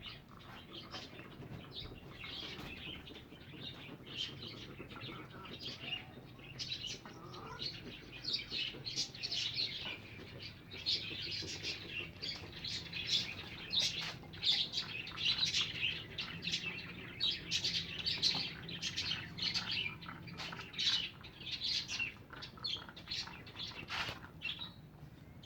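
A flock of small caged birds chirping and chattering continuously in many rapid, high calls, busiest in the middle stretch.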